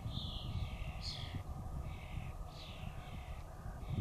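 Birds giving harsh, falling calls, several in a row about a second apart, over a steady low rumble.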